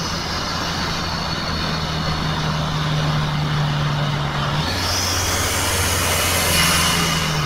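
Toyota 2KD-FTV 2.5-litre four-cylinder turbodiesel droning steadily at highway speed, heard inside the cabin with tyre and road noise. A high whine rises in pitch about four and a half seconds in and again near the end.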